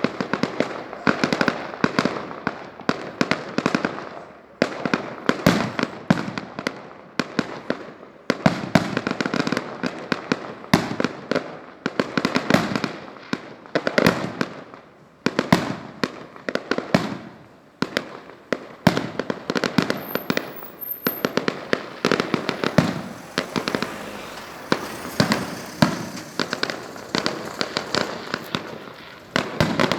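Fireworks display: a rapid, unbroken volley of shells bursting, several bangs a second with crackling in between.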